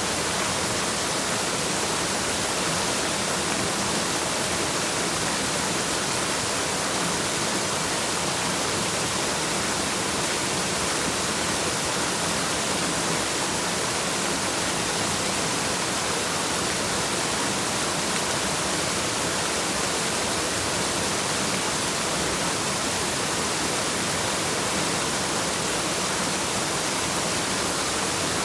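Waterfall: a steady, unbroken rush of falling water, even throughout, with a bright hiss on top.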